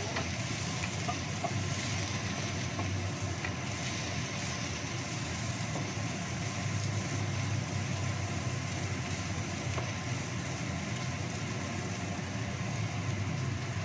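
Sliced onions sizzling in a non-stick wok, stirred with a wooden spatula that scrapes lightly against the pan, over a steady low rumble.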